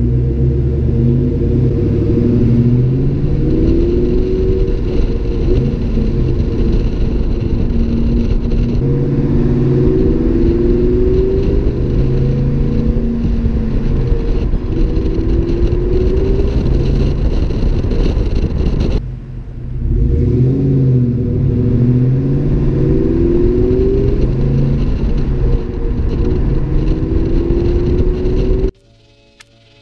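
2003 SVT Cobra Mustang's supercharged 4.6-litre V8 under acceleration, its pitch rising again and again as it pulls through the gears, with a brief lull about two-thirds of the way through. The engine sound cuts off abruptly about a second before the end.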